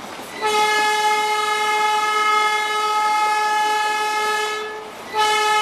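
Darjeeling Himalayan Railway toy train sounding a long, steady single-pitch warning blast of about four seconds, then a second blast starting about five seconds in.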